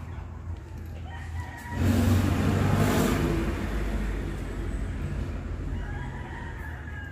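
A loud rushing noise swells up about two seconds in and slowly fades away, with a rooster crowing.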